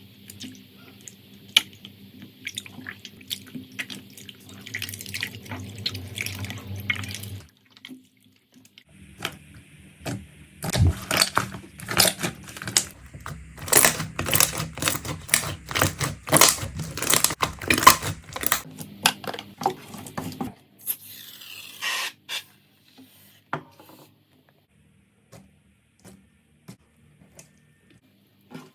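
Slime being squeezed and poked by hand, making wet clicking and popping sounds. The pops come thickest and loudest in the middle and thin out to scattered clicks near the end.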